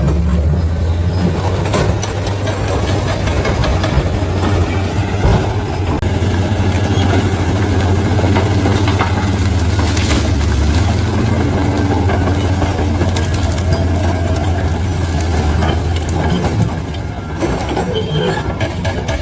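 Bulldozer diesel engine running steadily, with scattered sharp clanks and knocks; the engine note eases off near the end.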